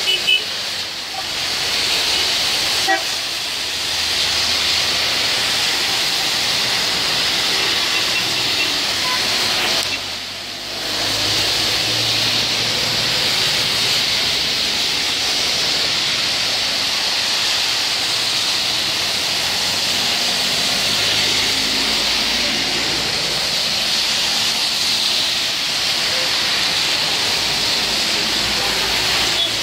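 Heavy rain with traffic driving on the flooded road: a loud, steady hiss of rain and wet tyres, with some low vehicle rumble, dipping briefly about ten seconds in.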